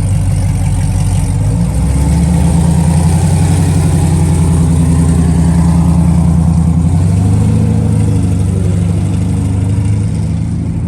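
A car engine running steadily and loudly. Its pitch steps up about two seconds in, holds, then eases down a little around seven seconds.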